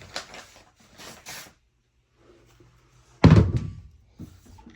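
Plastic parts of a composting toilet being handled: a few short rustling scrapes, then one loud thunk about three seconds in and a couple of lighter knocks.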